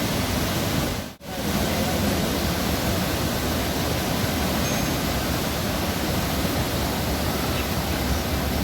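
Man-made waterfall pouring into a canal: a steady, even rush of falling water. It cuts out for a split second about a second in.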